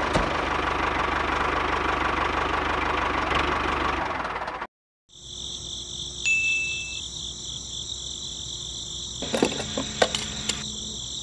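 A steady engine-like running sound from the miniature model tractors, cut off abruptly about four and a half seconds in. After a short silence, a steady high-pitched insect-like chirring continues. Near the end there are a few sharp clicks as a hose is fitted onto the model tanker's tap.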